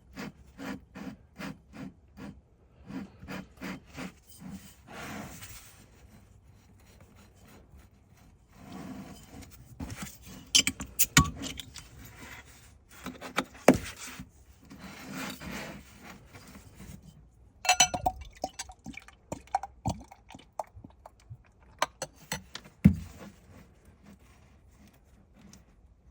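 Handling of a beer bottle and glass: a run of clicks and knocks, several stretches of rubbing and scraping, and a brief glassy ringing a little past the middle.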